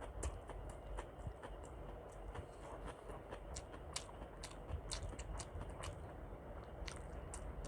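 Close-miked chewing of a soft khichuri meal, with frequent sharp, wet mouth clicks and smacks at an irregular pace of several a second.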